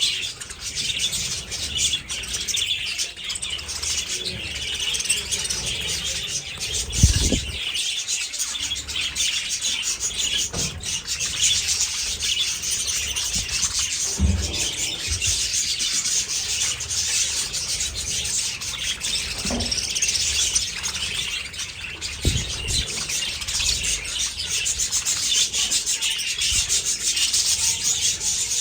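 A large flock of budgerigars chattering and chirping nonstop, a dense scratchy din. A few dull low thumps break through it.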